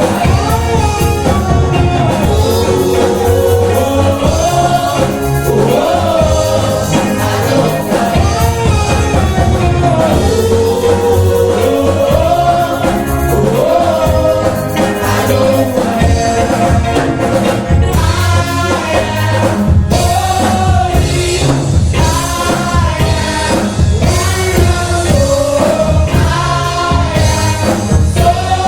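Gospel group singing with live band accompaniment, voices gliding in melody over a steady bass and drum beat.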